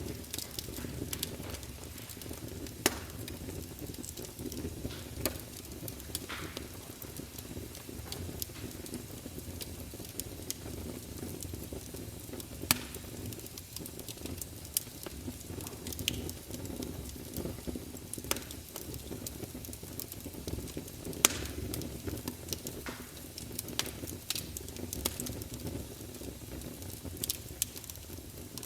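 Wood campfire burning: a steady low rumble with irregular sharp crackles and pops, a few of them much louder than the rest.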